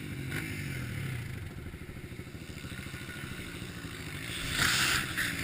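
Off-road motorcycle engine running on a muddy trail, its pitch gently rising and falling, with a brief louder rush of noise near the end.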